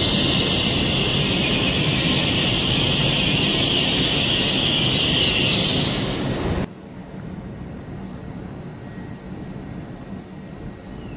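LNER Azuma train rolling in and braking to a halt, with a loud high squeal and hiss from the wheels and brakes that fades as it stops. About two-thirds of the way through it cuts off abruptly to the lower, steady hum of an Azuma standing at the platform.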